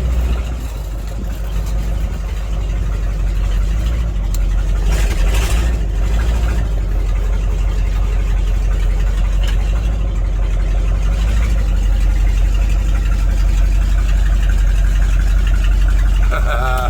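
1982 Chevrolet square-body ambulance engine running steadily, with its exhaust hanging loose. It dips briefly near the start and then holds even.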